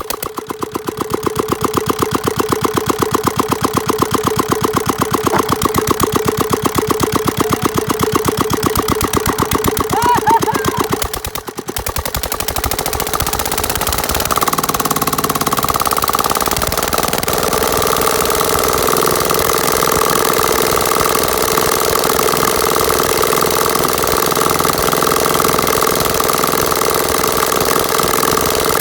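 Petter diesel engine turning over with a fast, regular pulsing beat for about eleven seconds. It dips briefly, then settles into steady, even running.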